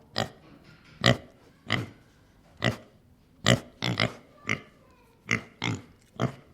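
Pig grunting: about ten short grunts, unevenly spaced.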